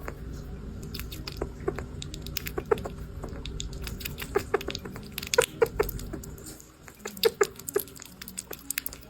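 A small pet crunching a hard snack: irregular sharp crunches and clicks, most frequent about four to eight seconds in.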